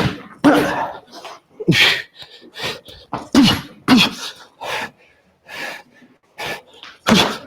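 A man's sharp, hissing exhales, one with each punch as he throws rear hooks and uppercuts, about one or two a second, some with a short grunt.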